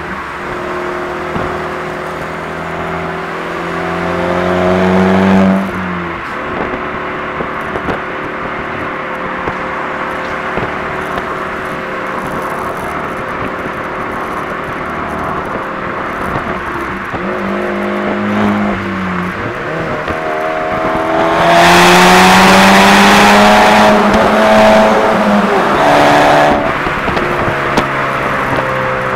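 Car engine accelerating hard in several pulls, its pitch climbing and then dropping suddenly when the throttle is lifted or a gear is changed, with steadier running in between. The longest and loudest pull comes about three-quarters of the way through.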